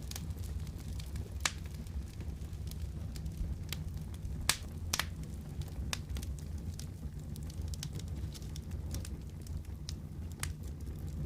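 Wood fire crackling, with irregular sharp pops over a steady low rumble; the strongest pops come about a second and a half in and again around four and a half seconds in.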